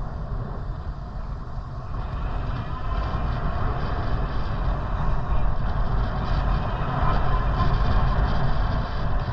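Steady rumble of wind and road noise while riding a bicycle, getting louder about two seconds in.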